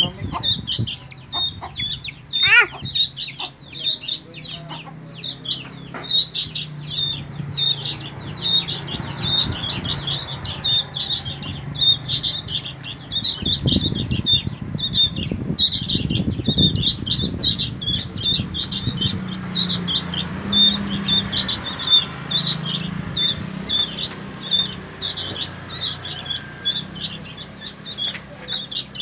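Baby birds cheeping: short, high calls repeated several times a second without a break.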